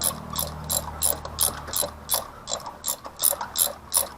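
Hand socket ratchet clicking in quick repeated strokes, about three clicks a second, as a fastener is turned.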